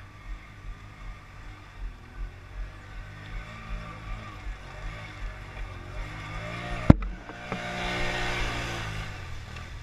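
ATV engine revving as the quad works its way up very slippery ground. The revs climb to a peak about eight seconds in and then ease off, with one sharp knock about seven seconds in.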